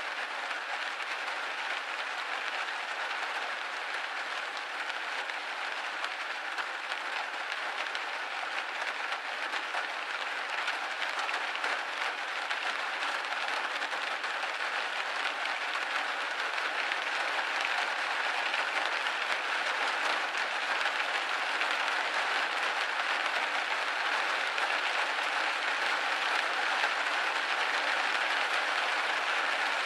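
Steady rain pattering on a window pane, a dense even hiss of many small drop hits, growing slightly louder over the stretch.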